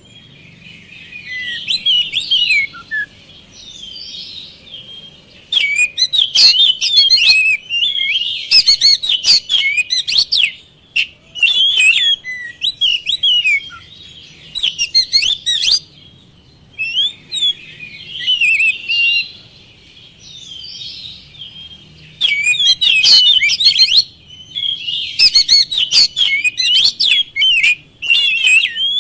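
Oriental magpie-robin (kacer) singing a loud, fast, varied song of high whistles and trills. It comes in bursts of a few seconds, with quieter twittering in between.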